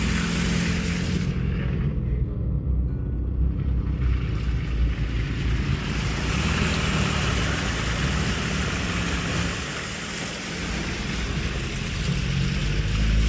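Car driving: steady engine and road noise with a broad rush of wind or tyre noise, ending in a loud low rumble.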